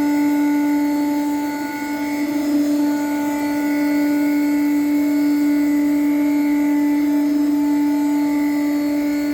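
High-speed spindle of a Pouwels DEF 1000 CNC wood router running with a steady, high whine. The loudness dips and the pitch wavers briefly about two seconds in.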